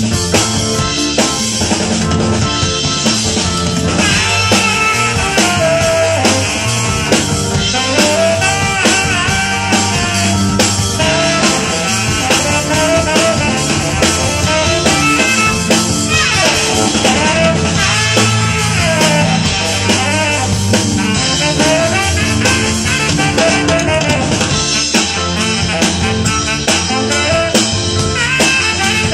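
A band playing with drum kit, bass and guitar, a steady drum beat under a wavering lead melody.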